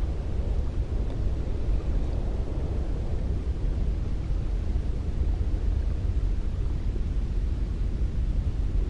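Steady cold wind blowing, a low rushing noise that swells and eases a little.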